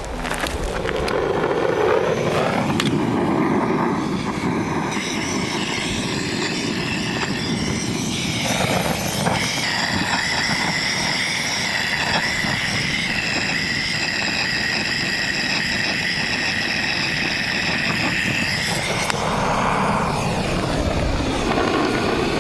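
A vehicle driving, its engine and road noise going steadily, with a steady high whine through the middle stretch.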